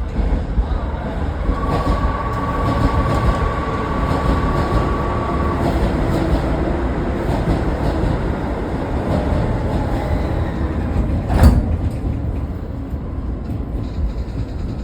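Running sound inside a Toei 10-300 series electric train car: steady rumble of wheels on rail, with the Mitsubishi IGBT-VVVF inverter's steady whine for a few seconds early on. A single sharp clank about eleven seconds in.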